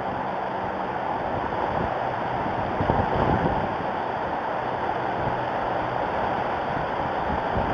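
Wind blowing hard across the nest camera's outdoor microphone: a steady rushing with buffeting gusts that swell about three seconds in and again near the end.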